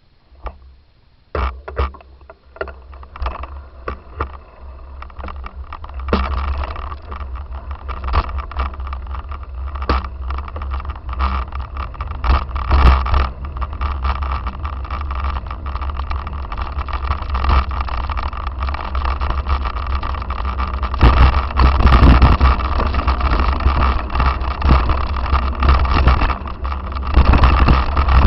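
Wind rumbling on the microphone, with a dense run of knocks and rattles, as from a camera carried at speed over rough ground. It starts nearly quiet, picks up about six seconds in and gets louder again near the end.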